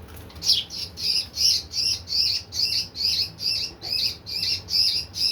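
A small bird giving a rapid, regular series of harsh, high chirps, about two to three a second, starting about half a second in: distress calls from a bird being caught by hand.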